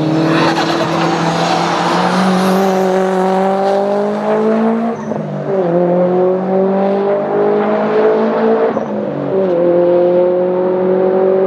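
Subaru Impreza WRX STI's turbocharged flat-four engine under hard acceleration. Its pitch climbs steadily and drops twice, about five and nine seconds in, as it shifts up a gear, then climbs again.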